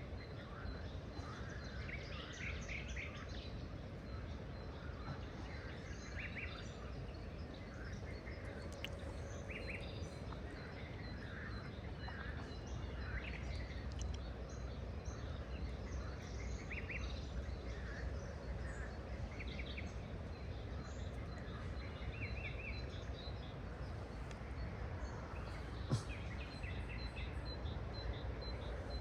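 Several birds chirping and calling in short, scattered notes, over a steady low background noise. A single sharp click near the end.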